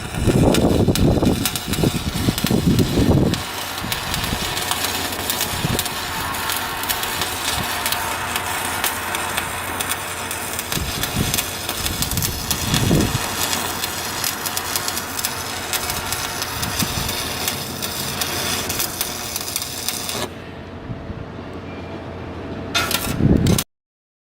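Machinery running steadily, with heavy low thumps in the first few seconds and a few knocks later on. The sound dulls about 20 seconds in and cuts off just before the end.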